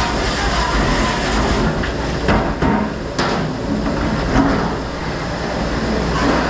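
Steady loud mechanical rumble with clattering knocks a few times, the loudest around two and three seconds in.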